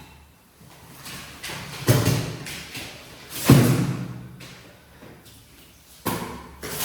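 Mud-soaked shaggy rug being worked during a wash: three heavy thuds, each trailing off in a rushing, scraping sweep.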